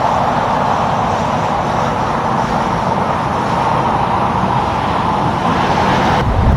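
Steady road noise of passing traffic, mostly tyre hiss. Near the end it changes to a deeper rumble.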